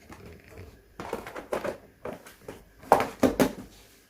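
Irregular light knocks and rustles of vegetables and their plastic packaging being moved about in a fridge's vegetable drawer, with a louder clatter about three seconds in.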